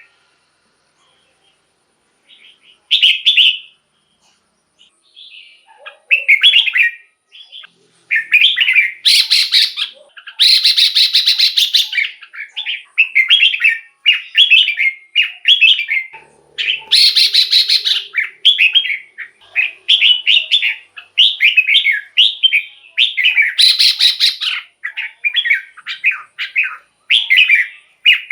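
Red-whiskered bulbul singing short warbled phrases, sparse at first, then almost without pause from about six seconds in. The phrases are mixed with several harsh, buzzy rattling calls.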